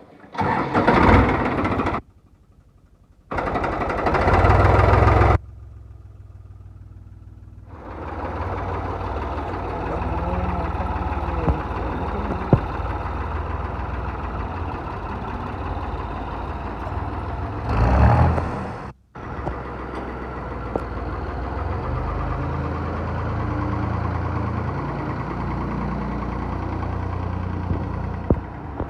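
Tractor diesel engine running at idle, in several edited clips, with louder bursts in the first few seconds and again about 18 seconds in.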